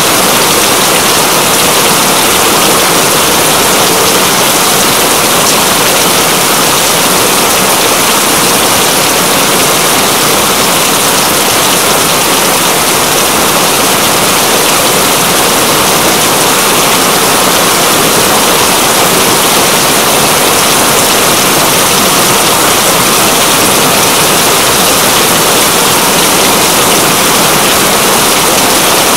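Steady, heavy rain falling, an even hiss that keeps up without a break.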